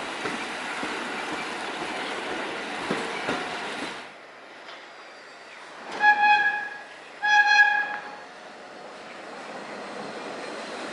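Subway train running with a steady noisy rumble that drops off suddenly about four seconds in. Then a subway train's horn gives two short blasts a little over a second apart, each one steady in pitch.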